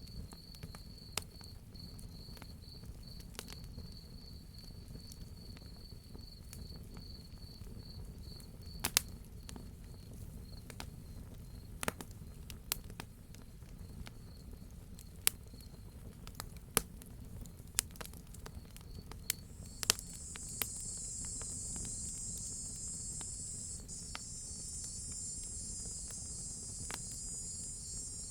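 Wood fire crackling with scattered sharp pops over a low steady rumble, while a cricket chirps in a fast pulsing trill. About two-thirds of the way through, a higher, dense buzzing insect chorus, cicadas, swells in and holds.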